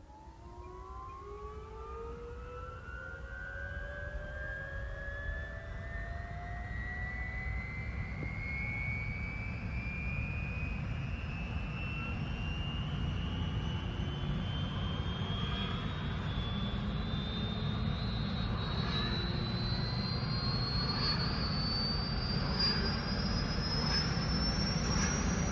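Helicopter turbine engine starting up: a whine that climbs steadily in pitch the whole time over a low rumble, both growing louder as the engine spools up.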